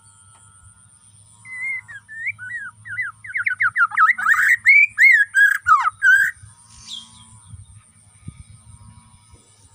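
Bornean shama (murai batu) singing a fast burst of whistled notes that sweep up and down, starting about a second and a half in and stopping around six seconds, loudest toward its end. This is the kind of song that keepers play to provoke rival males.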